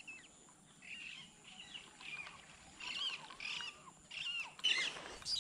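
A bird calling outdoors: a series of short chirping notes, about two a second, louder toward the end.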